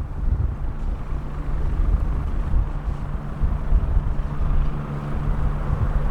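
Strong wind buffeting the microphone over a steady engine drone, with a hum that holds one pitch and a hiss that grows a little toward the end.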